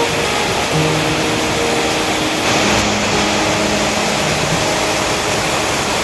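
Heavy rain pouring down: a steady, loud hiss. Faint held tones sound underneath it.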